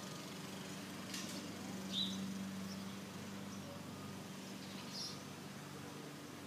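Outdoor backyard ambience: a steady low hum throughout, with short, high bird chirps about two seconds in and again near five seconds.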